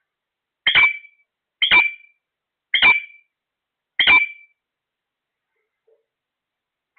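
A parrot squawking four times, loud harsh calls about a second apart, then quiet.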